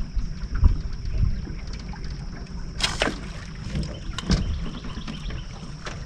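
Small fishing boat on the water: a steady low rumble with a thin high whine running under it, and several knocks and thumps against the hull and gear. The loudest knock comes about three seconds in.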